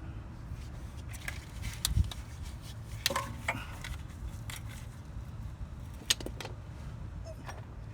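Scattered metallic clicks and clinks of hand tools, a socket and ratchet working on the axle's mounting bolts, with a few sharper knocks about two, three and six seconds in, over a steady low hum.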